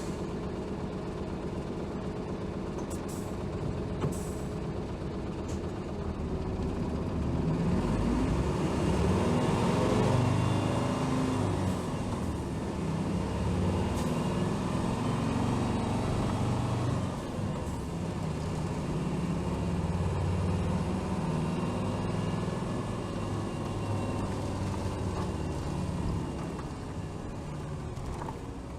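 Hino Rainbow HR city bus diesel engine heard from inside the cabin, pulling away and picking up speed with rising engine pitch through the first half. It then runs at a steady cruise and eases off near the end.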